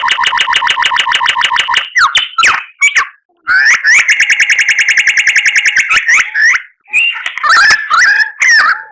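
White-rumped shama (murai batu) singing: two long runs of rapid, evenly repeated notes, the second faster than the first, with short varied whistled phrases between and after them.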